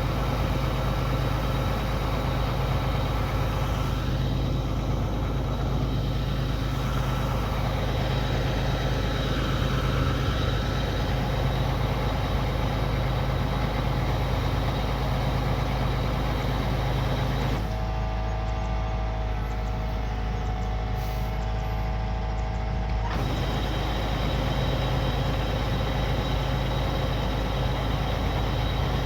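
Kubota DC-105X combine harvester running steadily under load while harvesting rice, a constant low engine drone with the whirr of the threshing machinery. Its tone shifts for a few seconds past the middle, then settles back.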